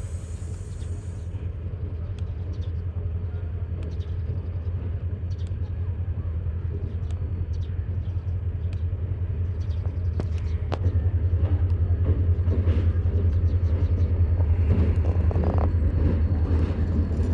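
Steady low rumble of a train at a station platform, growing gradually louder, with faint voices and occasional clicks over it.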